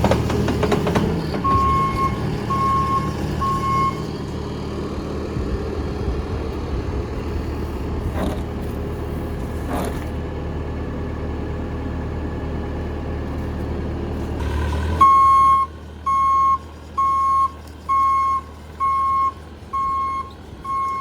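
Bobcat T450 skid steer's diesel engine running, with its backup alarm beeping three times early on. About 15 s in the engine noise drops sharply, and the alarm then beeps steadily about once a second.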